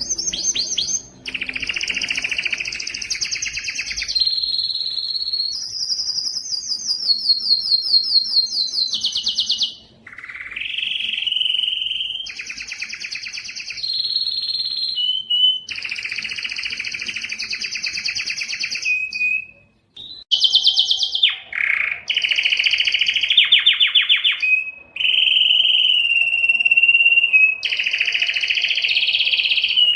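Domestic canary singing a long song of rapid trills and rolls, each held for a second or more at a steady pitch before switching to the next, with brief pauses about a third and two thirds of the way through.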